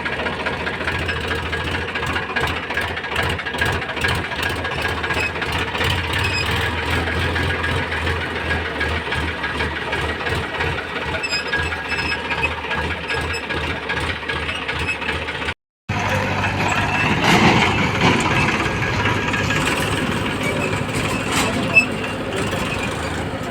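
Tractor diesel engine running with a fast, dense mechanical rattle over a steady low hum. The sound drops out for a moment about two-thirds of the way through, then carries on.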